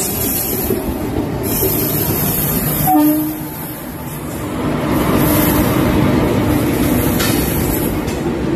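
Indian Railways express train passing close at speed, with a loud, continuous rush and rattle of wheels on the rails. A brief horn note sounds about three seconds in, and a longer steady horn tone runs through the middle.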